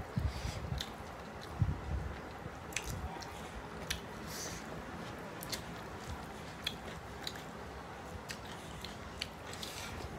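Close-up eating sounds of mutton biryani eaten by hand: chewing with small wet mouth clicks and smacks. There are a few low thuds in the first two seconds.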